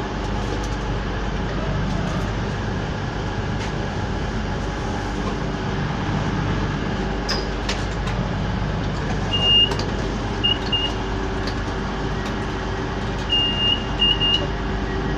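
Class 221 Voyager's underfloor diesel engine running steadily while the train stands, heard from on board. Short high beeps sound in two runs, about two-thirds of the way through and again near the end, like the doors' closing alarm.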